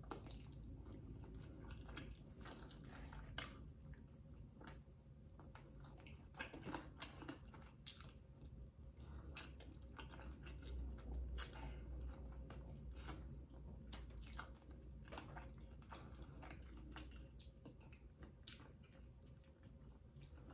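Faint, close-up sounds of a person eating a chicken wing: biting the meat off the bone and chewing, with scattered wet mouth clicks and smacks.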